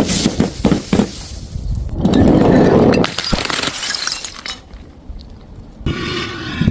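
Glass bottles smashing: a quick run of sharp knocks and cracks, then a heavier shattering crash about two seconds in, followed by glass shards clinking and scattering. Near the end comes a brief ringing of glass.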